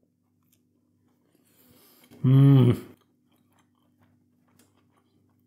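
A man chewing a mouthful of burger, with faint wet mouth sounds and small clicks, and one short hummed 'mmm' of enjoyment with his mouth closed about two seconds in, the loudest sound.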